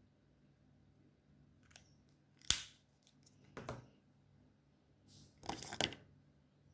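Alcohol markers being handled during colouring: a sharp click about two and a half seconds in, another about a second later, and a longer run of clicks and scraping near the end, over faint marker strokes on paper.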